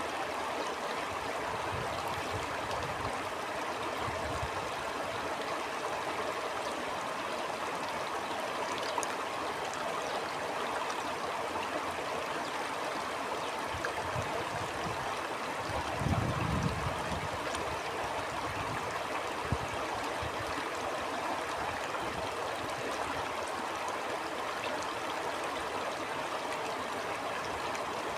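Stream flowing steadily, a continuous rush and trickle of water, with a few brief low rumbles, the strongest about halfway through.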